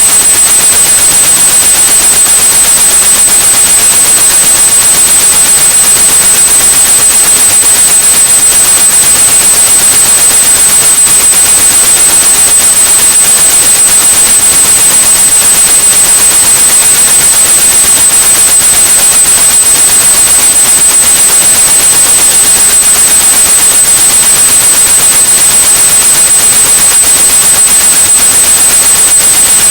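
Steady white noise hiss with a continuous high-pitched pure tone at about 8100 Hz over it, a tinnitus-masking sound.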